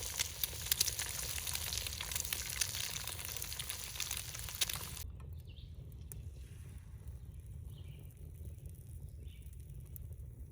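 Food frying and sizzling in a pan, with scattered crackles, cut off abruptly about halfway through. After that there is a low steady rumble with three faint, short, high chirps.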